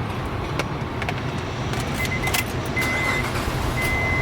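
Keys jangling and clicking, then a dashboard warning chime beeping about once a second from about two seconds in. Under it runs the steady low rumble of the Honda Ridgeline's 3.5-litre V6 idling just after starting on its new key.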